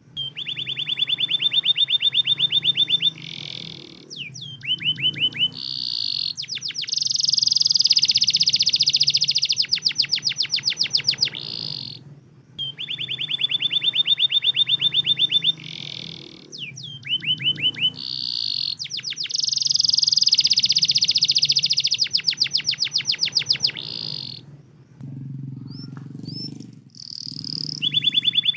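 Domestic canary song: fast trills and rolling runs, the same sequence coming round again about every twelve seconds, as in a looped song-trigger recording meant to set other canaries singing. A short low noise breaks in near the end.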